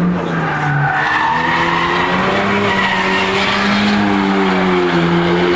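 Car engines running at low revs, their pitch drifting slowly up and down.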